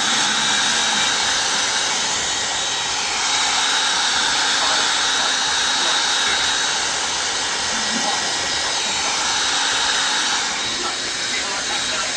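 Hair dryer running steadily: a loud rush of air with a thin high whine over it, its level shifting slightly a couple of times.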